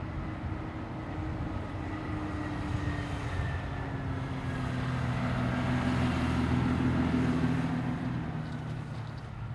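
An engine passing by, growing louder to a peak about two-thirds of the way through and then fading, its pitch dropping slightly as it goes.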